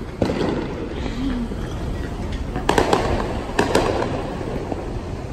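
Fireworks going off overhead: a bang just after the start, then quick clusters of sharp cracks and pops about three seconds in and again just before four seconds, over a steady background noise.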